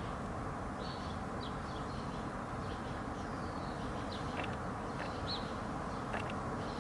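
Scattered short, high chirps from small birds, about five in all, over steady background noise.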